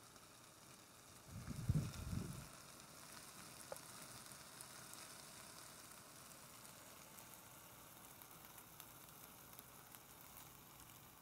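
Minted lamb kebabs frying, a faint steady sizzle with small crackles. About a second and a half in, a brief low rumble is the loudest sound.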